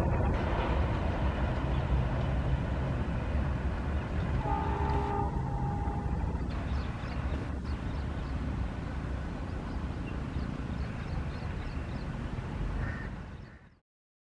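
Express train of LHB passenger coaches rolling past, a steady rumble of wheels on rail. A brief horn-like tone sounds about four and a half seconds in, and the sound falls away and cuts off shortly before the end.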